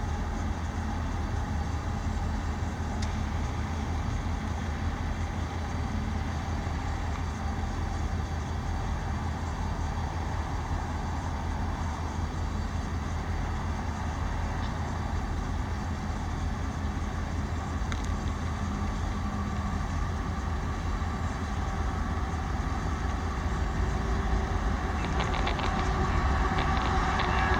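CSX intermodal freight train running past, a steady low rumble of wheels on rail that grows louder near the end, with some clacking.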